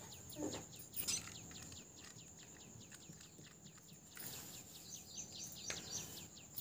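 Faint background birds chirping: a quick run of short, falling chirps that stops about four seconds in. Under it runs a thin, steady high whine, with a few soft knocks as tools are set down.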